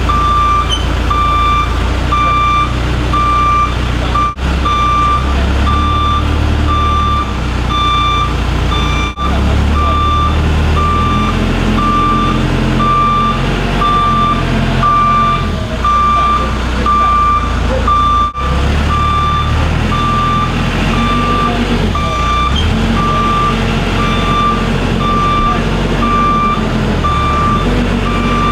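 Telehandler's backup alarm beeping steadily, about once a second, over the machine's engine running, whose rumble rises and falls as the boom works. The sound cuts out briefly three times.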